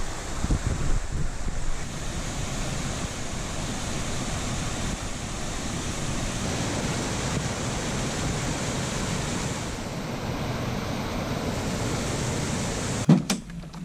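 Steady rushing wind, with gusts buffeting the microphone for the first couple of seconds. A sharp click comes near the end, and the rushing drops away after it.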